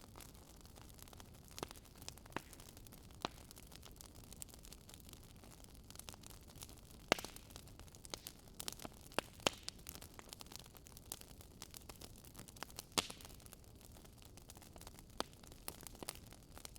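Wood fire crackling in a fireplace: a faint steady hiss with irregular sharp pops, a few louder ones about seven, nine and thirteen seconds in.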